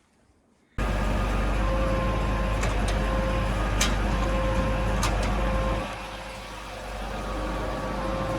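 Heavy delivery truck's engine running steadily with a deep rumble, starting abruptly just under a second in, with a few sharp clicks over it and a brief drop in level around six seconds in.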